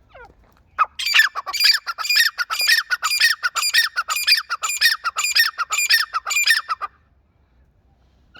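A teetar (francolin) calling: a loud, rhythmic run of repeated squawking phrases, about two a second. The run lasts some six seconds and then stops abruptly.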